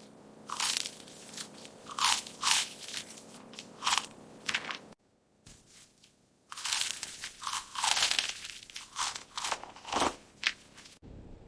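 A cat biting and chewing crunchy fast food: quick, sharp crunches in two spells with a short pause about halfway through.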